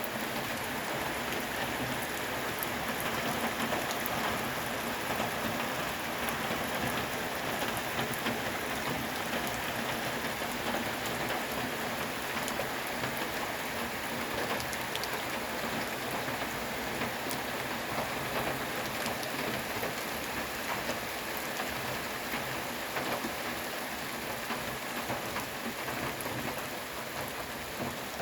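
Breaking-up river ice drifting on the current: a steady pattering crackle of many small ice pieces knocking and rubbing together over running water.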